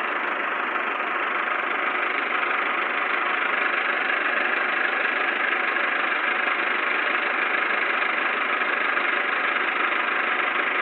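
Millat tractor's diesel engine running steadily, a little louder from about two seconds in.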